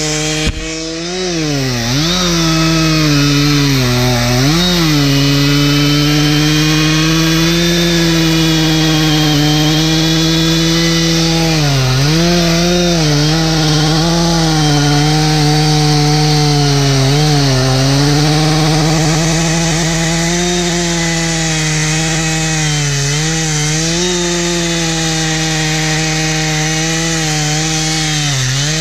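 Two-stroke chainsaw cutting into a large white oak at full throttle. Its engine pitch sags and recovers again and again as the chain bites and eases off in the wood.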